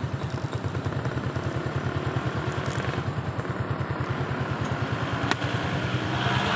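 Motorcycle engine idling with an even putter of about eight to nine pulses a second; it has a new cylinder block and timing chain and is still being broken in. One sharp click about five seconds in, and the engine grows louder near the end.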